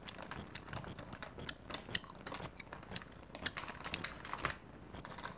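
A person chewing with the mouth closed, close to the microphone: a quick, irregular run of small, quiet, wet mouth clicks.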